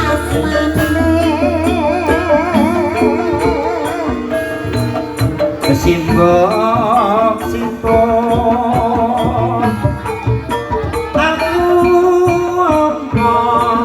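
Javanese traditional music accompanying an ebeg dance. Sustained pitched instrument tones and drum strokes carry a melody that wavers with a wide vibrato, sung or played.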